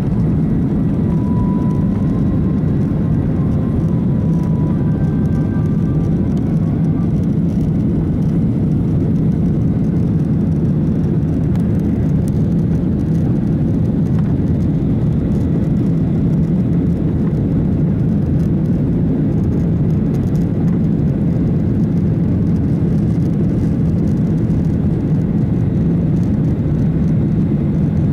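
Steady drone of an airliner's jet engines and airflow heard from inside the passenger cabin, even and unchanging.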